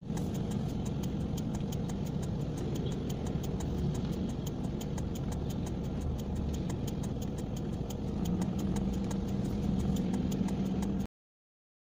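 Car engine idling in stopped traffic, heard from inside the cabin as a steady low hum with a fast, even ticking over it. It grows a little louder about eight seconds in and cuts off suddenly near the end.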